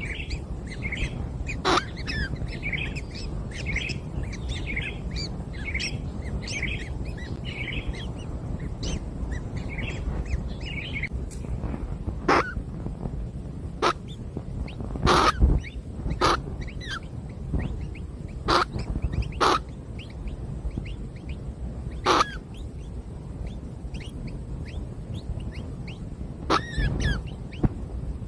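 Nestlings begging at the nest with rapid, high, thin chirps for the first ten seconds or so, then a series of about nine louder, sharp bird calls spaced a second or more apart, with a low rumble underneath.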